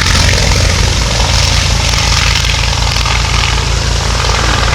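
Yakovlev Yak-50's Vedeneyev M-14P nine-cylinder radial engine and propeller running steadily, with a low, even throb.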